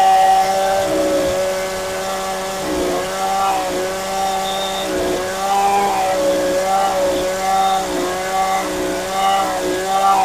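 Two-stroke chainsaw running at high revs while cutting wood, its pitch dipping briefly again and again as the chain bites under load.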